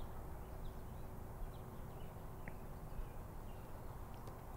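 Quiet outdoor ambience with a few faint, short bird chirps scattered through it.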